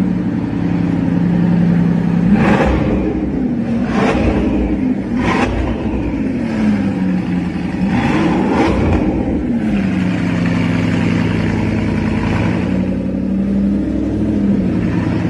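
Bugatti Bolide's quad-turbo 8.0-litre W16 engine running at idle just after a cold start, blipped several times, with the revs falling back to idle after each blip.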